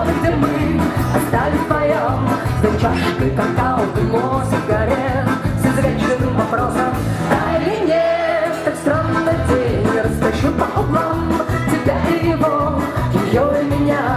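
Live rock band playing loudly, with a steady drum and bass beat under a wavering melodic lead line.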